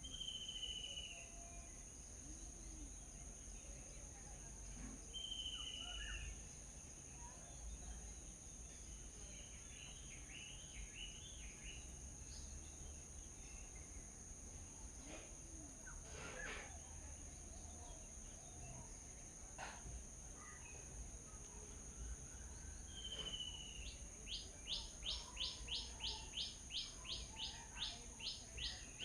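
Small birds calling at a feeding spot: a few short downward-slurred calls and a brief cluster of chirps, then near the end a fast run of repeated notes, about three a second. A steady high-pitched whine and a low rumble sit underneath.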